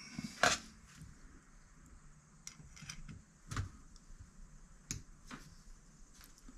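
About five scattered light clicks and taps of small metal carburetor parts and a tool being handled while the pilot jet is worked on, with faint hiss between.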